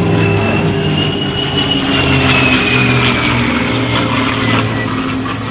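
Propeller-driven aircraft flying by, its engine running steadily, with a faint high whine that slowly rises and then falls.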